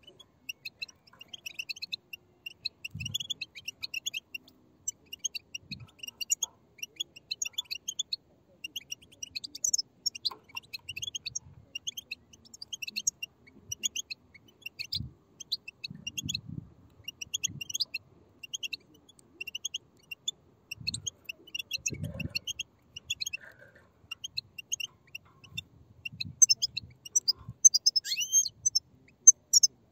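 A group of European goldfinch chicks giving their chattering begging calls together: many short, high chirps in a dense, continuous stream, louder near the end.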